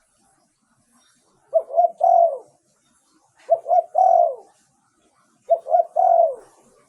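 Spotted dove cooing three times, about two seconds apart: each phrase is two short coos followed by a longer coo that falls in pitch.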